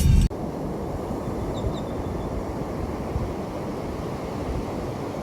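Background music cuts off just after the start, leaving a steady low rush of ocean surf, with two faint short high chirps about a second and a half in.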